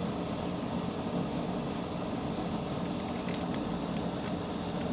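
Steady low background hum, with a few faint light clicks from about three to four and a half seconds in.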